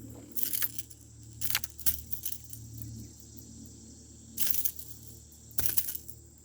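Metal jangling and clinking of a topwater crawler lure and its treble hooks in four short bursts, as a small largemouth bass hooked on all three hooks is handled.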